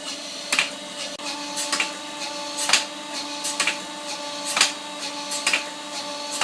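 A precision grinding machine runs steadily, grinding down the jaws of a pair of pliers, with a sharp clack about once a second.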